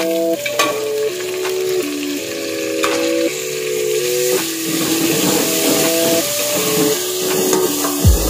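Chopped tomatoes and green pepper sizzling in hot oil with onions in an aluminium pot, stirred with a metal ladle that clicks and scrapes against the pot. Soft background music of held chords plays along.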